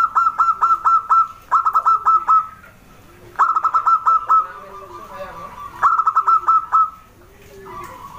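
Zebra dove (perkutut) calling: repeated bursts of fast staccato notes, about four bursts roughly two seconds apart, each followed by a softer, lower cooing note.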